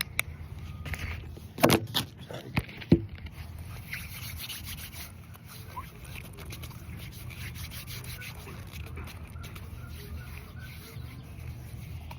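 Handling sounds: a few sharp knocks and bumps in the first three seconds, then soft, steady rubbing with faint ticks over a low rumble.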